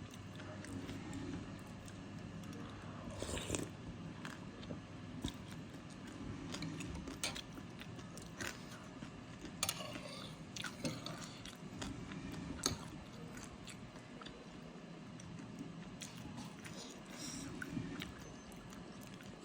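Close-miked chewing of soto mie noodle soup, with many short crunchy bites scattered through it.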